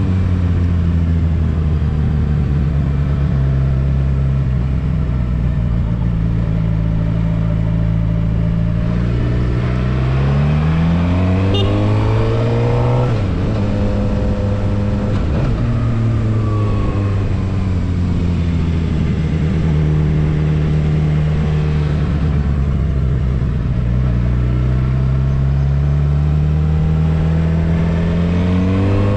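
Suzuki GSX-R750's inline-four engine running at low revs and holding steady, then revving up about ten seconds in, with a sudden break at a gear change. The revs then fall away and hold steady again before rising once more near the end.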